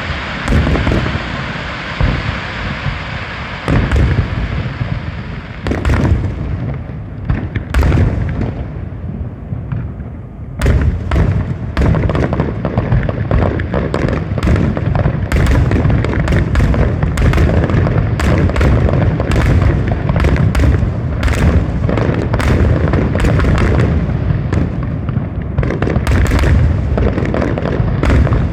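Fireworks display: booms and sharp bursts, scattered at first, then from about ten seconds in a dense, rapid run of explosions that goes on without a break.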